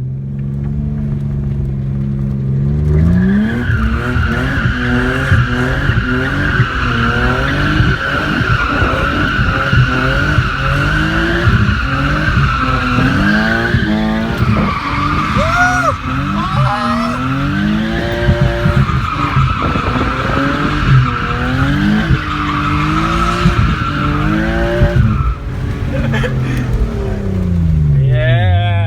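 BMW E36 drift car's engine revving hard and dropping back over and over while the rear tyres squeal, as the car drifts around a pole in second gear. The engine starts off steady, then the revving begins, and the tyre squeal comes in two long stretches with a short break between them.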